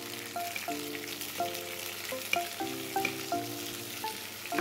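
Chopped capsicum, onion, green chilli and tomato sizzling in hot oil in a wok while a wooden spatula stirs them. A tune of short pitched notes plays over it.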